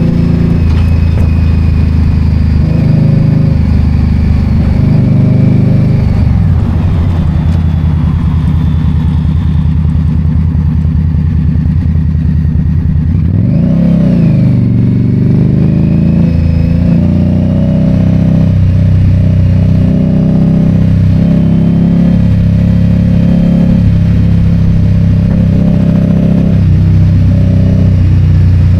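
Indian Scout Bobber's V-twin engine running under way, with its pitch dropping and climbing again about six and fourteen seconds in as the throttle and gears change.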